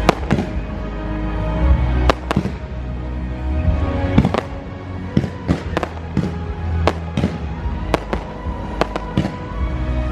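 Fireworks bursting in quick irregular succession, about a dozen sharp bangs, over loud show music with a heavy low end.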